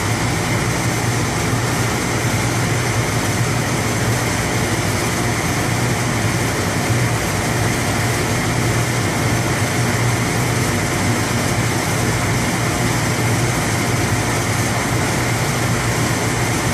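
Steady drone of boiler-room equipment: a constant low hum under an even rushing noise, with no change in level.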